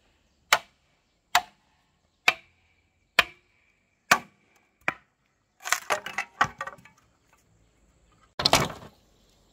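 Wood being chopped with a blade: six sharp blows about one a second, then some clattering and a louder, noisier stroke near the end.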